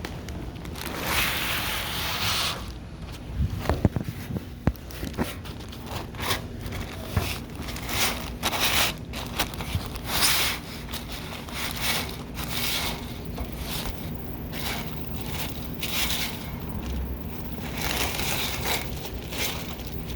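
Rustling, crinkling and scraping as the running boards and their packaging are handled, with a few sharp knocks about four to five seconds in.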